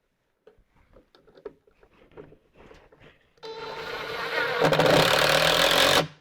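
Light handling clicks, then a power drill-driver runs for about three seconds, getting louder as it tightens a screw home, and stops abruptly.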